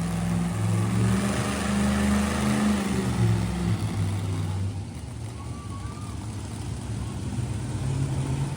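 Monster truck engine running with a deep steady drone, its pitch rising slightly, easing off about halfway through, then building a little again near the end.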